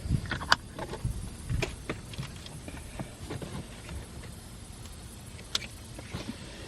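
Irregular clicks and knocks of hard plastic parts being handled and fitted together: a suction-base camera mount being attached and adjusted inside a car, with a sharp click about five and a half seconds in.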